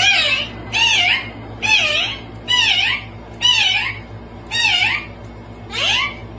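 A pet animal giving a series of short meow-like calls, about one a second, each wavering up and down in pitch.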